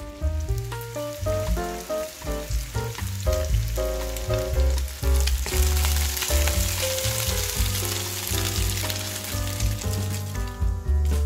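Meatballs sizzling as they fry in hot oil in a frying pan, stirred with a wooden spatula. The sizzle fades near the end. Background music with a melody and a bass line plays throughout.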